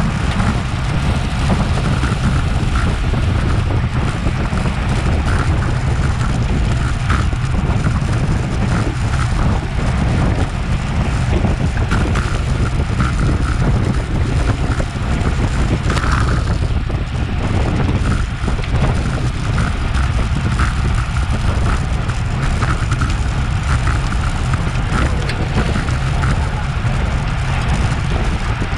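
Wind rushing and buffeting over an action camera's microphone on a road bicycle moving at race speed, a steady low rumble, with faint tyre and drivetrain noise underneath.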